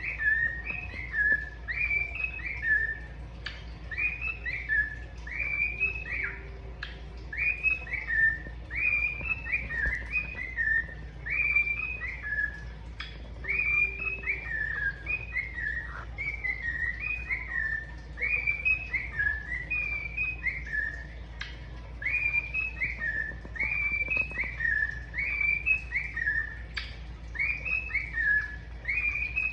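Pet cockatiel singing a whistled song: the same short phrase, a higher note dropping to a lower one, repeated over and over with a few brief pauses.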